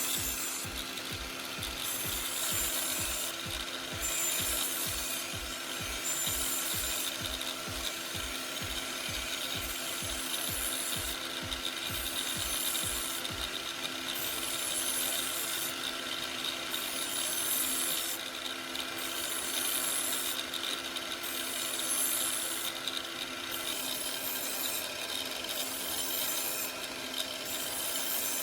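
Angle grinder running with a knife edge held against its homemade cardboard abrasive disc, a steady whine under a high rasp that breaks off every couple of seconds as the blade is passed along. A low regular pulse about twice a second stops about halfway through.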